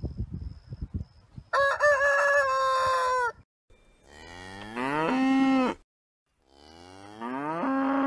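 A rooster crows once about a second and a half in, after some low rustling thumps. Then a dairy cow moos twice, each moo rising in pitch and then held.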